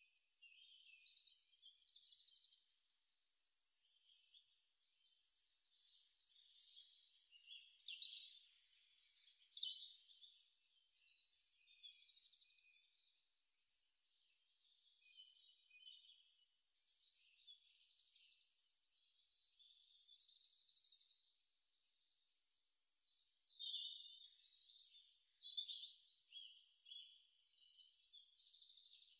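High-pitched chirping and fast trilling of songbirds, coming and going in short phrases with a few brief lulls.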